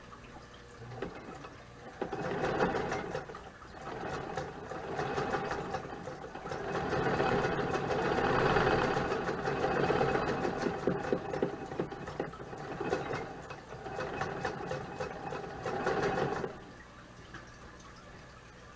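Vintage Singer sewing machine stitching a seam, running in several spurts that rise and fall in loudness. It starts about two seconds in and stops shortly before the end.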